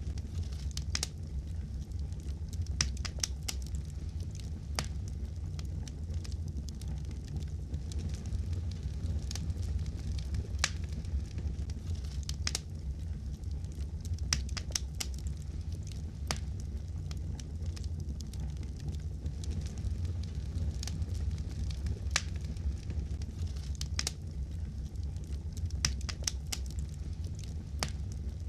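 Wood fire burning in a fireplace: a steady low rumble with frequent sharp, irregular pops and crackles.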